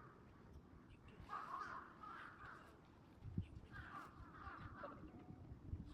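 A crow cawing faintly: about four harsh caws, coming in two pairs.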